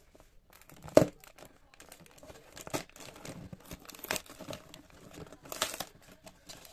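Packaging of a LEGO set crinkling and rustling as it is handled, in irregular crackles. The sharpest and loudest crackle comes about a second in.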